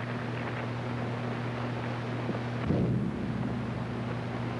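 Steady hum and hiss of a worn early sound-film soundtrack, with one short low rumbling boom a little past halfway.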